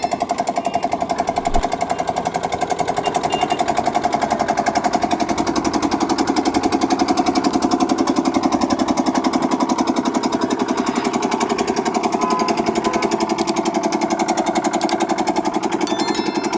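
A vehicle engine running steadily with a rapid, even throb, and a single knock about a second and a half in.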